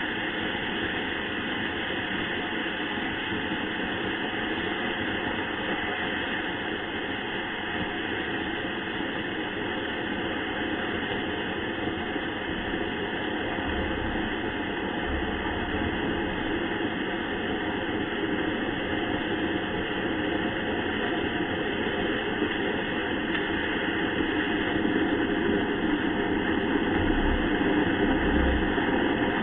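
Sugar-propellant (rocket candy) motor burning on a static test, a steady rushing roar that grows a little louder near the end.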